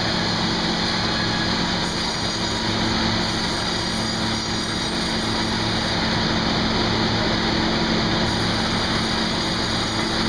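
Sawmill machinery running steadily: a constant mechanical hum with a few steady low tones under an even hiss.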